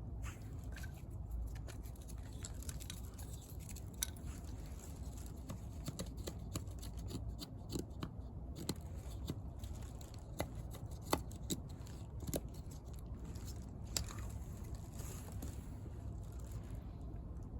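Wood fire in a homemade bucket fire pit crackling, with irregular sharp pops over a low steady rumble.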